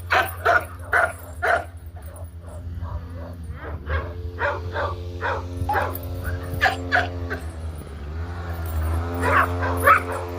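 Dogs barking and yipping in repeated short bursts: a quick run at the start, more in the middle and a few near the end, over a steady low hum.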